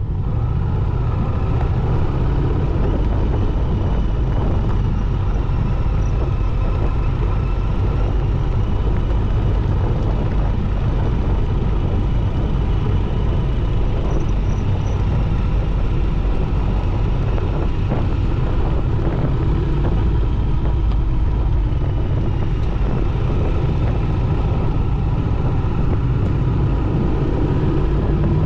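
Royal Enfield motorcycle riding at a steady pace, its engine running under a constant deep rumble of wind buffeting the microphone.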